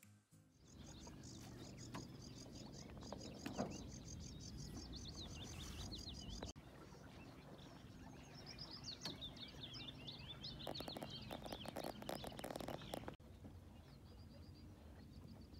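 Birds singing: runs of quick, high repeated chirps, then a series of falling whistled notes in the middle, over a low steady rush. A short patch of crackling comes about two-thirds of the way in, and the sound breaks off abruptly twice.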